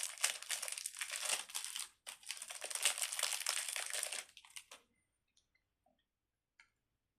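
Wrapper packaging crinkling and rustling as a small fidget toy is unwrapped and handled, with a short break about two seconds in. It stops shortly before five seconds in, leaving near silence and one faint click.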